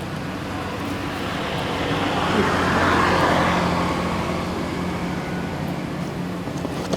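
A road vehicle passing by: a rush of noise that swells, peaks about three seconds in and fades away, over a steady low hum.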